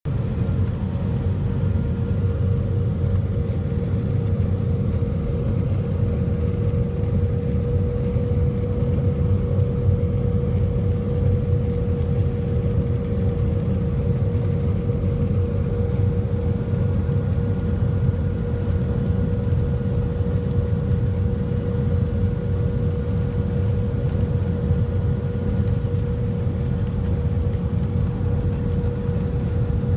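Cabin noise inside an Airbus A320 airliner: a steady deep rumble of engines and airflow, with a constant mid-pitched hum over it.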